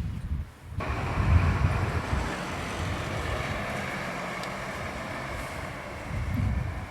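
Wind buffeting the microphone in low rumbles, with a steady rushing hiss that starts abruptly about a second in and carries on.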